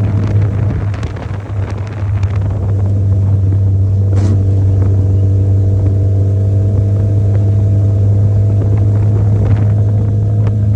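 An engine running at a steady speed, a loud low drone that holds one pitch, with a few light clicks in the first couple of seconds and a sharp knock about four seconds in.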